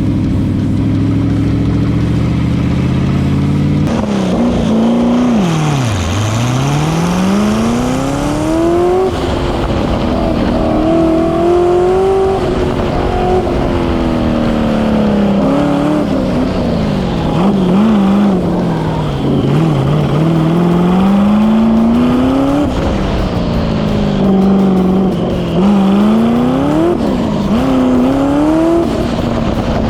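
Chevrolet 5.3-litre LS V8 in an LS-swapped BMW E36 on an autocross run. It holds a steady note for the first few seconds, then revs up and drops back again and again as the car accelerates and slows between corners.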